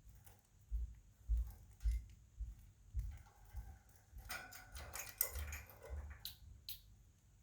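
Pet budgerigars chirping and chattering in a brief burst about halfway through, with two short high chirps after it. Light taps and soft low thumps come and go throughout.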